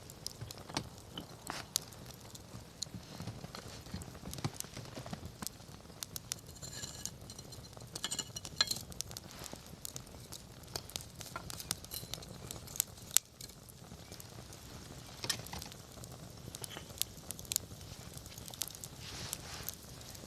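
Wood campfire crackling, with irregular sharp pops and snaps over a low, steady background, including a denser run of snaps about seven to nine seconds in and one especially loud snap about thirteen seconds in.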